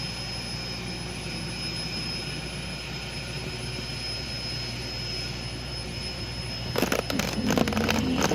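Steady low rumble of an idling vehicle engine with a faint constant high whine. Near the end come a louder stretch of knocks and rustling and a wavering low hum.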